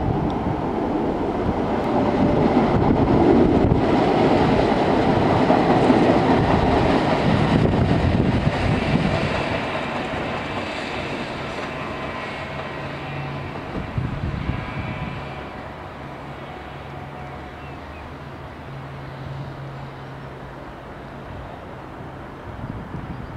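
Tyne and Wear Metro battery locomotives slowly hauling a Metrocar through depot trackwork: rail and running noise, loudest in the first half and then fading, with a steady low hum and a faint high squeal around the middle.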